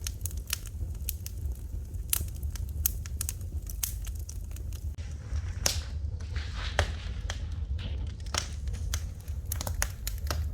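Wood fire crackling in a fireplace: irregular snaps and pops over a steady low rumble, with a short hiss about halfway through.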